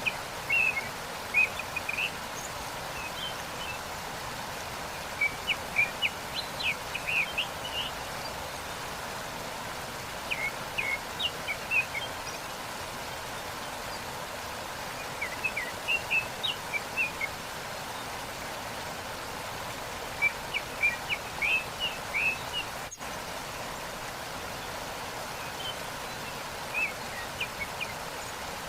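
Steady rush of falling water from a waterfall, with songbirds chirping in short bouts every few seconds. The sound dips for an instant about two-thirds of the way through.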